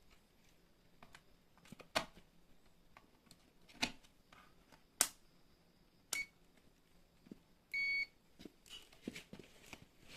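Samsung top-loading washing machine control module giving one short electronic beep about three quarters of the way in. Before it come four sharp clicks or taps, roughly a second apart.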